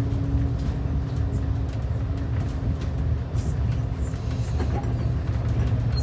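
City bus in motion heard from inside the cabin: a steady low engine and road rumble under a constant hum, with light rattles and clicks throughout.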